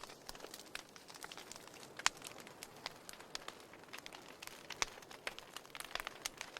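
Wood fire burning, with a soft hiss and irregular sharp crackles and pops of the burning firewood. The loudest snaps come about two seconds in and again near five seconds.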